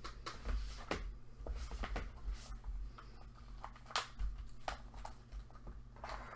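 Hands handling small craft items and packaging: scattered light clicks, taps and rustles, spaced irregularly, over a steady low electrical hum.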